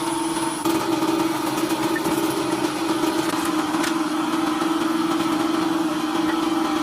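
A motor running steadily with a constant hum that gets louder about half a second in.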